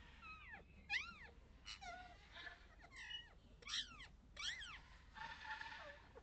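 A run of short, high-pitched animal calls, each rising and then falling in pitch, about one every half second to second.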